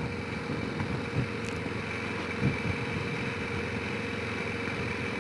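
Honda Rincon 650 quad's single-cylinder engine running steadily as it drives along a forest track, with a couple of small bumps about a second and two and a half seconds in.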